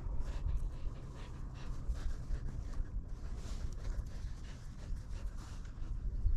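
Footsteps of a person walking, a string of soft irregular steps, over a steady low rumble on the microphone.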